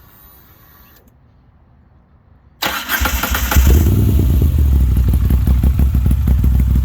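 Moto Guzzi's air-cooled transverse V-twin started: after a couple of quiet seconds the starter cranks briefly, the engine catches about three and a half seconds in, then runs steadily with a deep, even beat through the exhaust.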